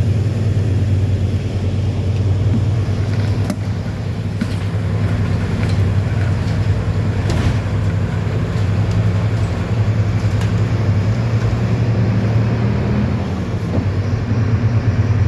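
Mercedes-Benz 1724L bus's diesel engine running steadily with a deep, even hum, with a few short rattles from the bus body.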